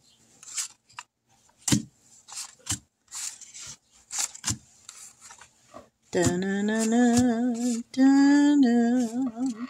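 Paper dollar bills being flipped and sorted by hand: a string of short, crisp rustles. About six seconds in, a woman sings a few drawn-out notes with a wavering pitch.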